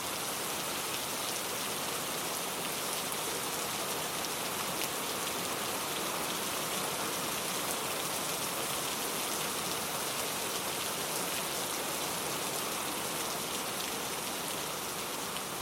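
Steady rain falling, an even hiss of drops pattering on surfaces.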